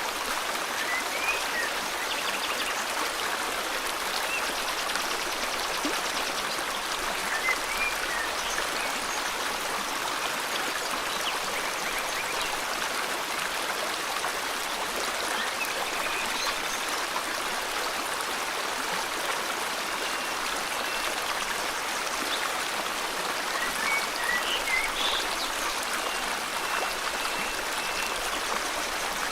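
River water flowing steadily, with a few short bird chirps over it now and then and a couple of thin, held high whistles.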